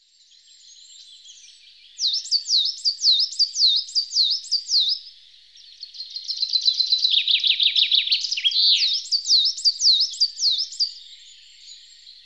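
A songbird singing. About two seconds in comes a run of quick falling notes, about three a second, followed by a faster trill.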